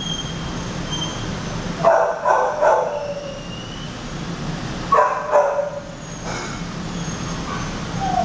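Shelter dogs barking in a kennel room: a quick run of three barks about two seconds in and two more about five seconds in, over a steady low hum.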